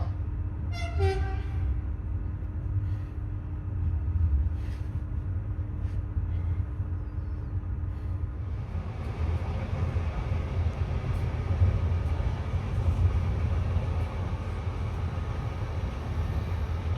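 Passenger train running on the rails: a steady low rumble with a steady hum. About eight and a half seconds in the hum stops and the running noise turns louder and hissier.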